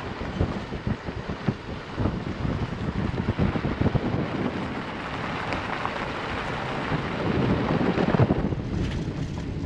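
Van driving over a bumpy dirt road: tyres on gravel with a steady rumble and repeated knocks and rattles from the bumps, plus wind on the microphone. The noise swells for several seconds and eases off near the end.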